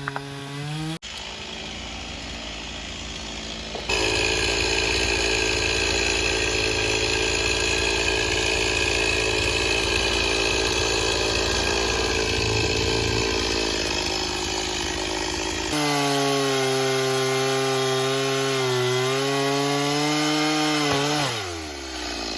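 Two-stroke chainsaw cutting pine firewood: a long stretch of steady cutting under load, then the engine revving freely with its pitch dipping. Near the end the revs fall away as it winds down.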